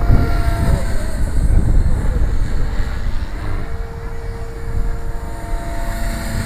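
Strong wind buffeting the microphone with a heavy low rumble, over the thin, steady whine of a Blade 360 CFX electric RC helicopter's motor and rotor.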